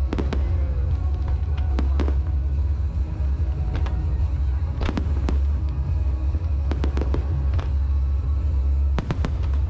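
Aerial fireworks going off: a series of sharp bangs, some singly and some in quick pairs, every second or two over a steady low rumble.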